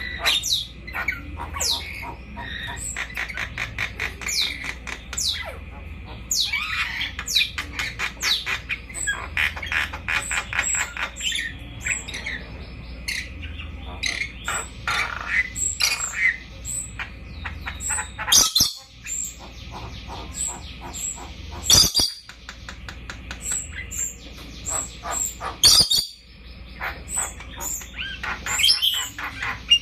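Red lory chirping and chattering in quick runs of short calls, with several loud, harsh squawks in the second half.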